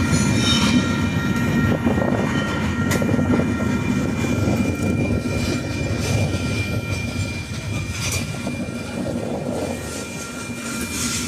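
Union Pacific rock train rolling past: a steady rumble of wheels on rail, with thin steady squealing tones above it and a few sharp clicks.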